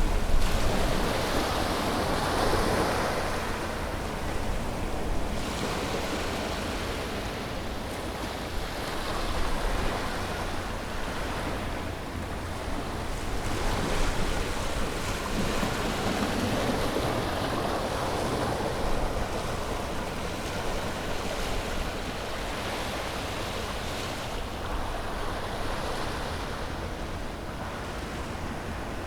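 Ocean waves breaking and washing up a beach, a steady rush that swells and eases every few seconds, with wind noise underneath.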